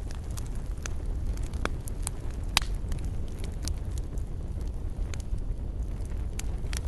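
Campfire burning: a steady low rumble of flames with scattered sharp crackles and pops of burning wood, the loudest pop about two and a half seconds in.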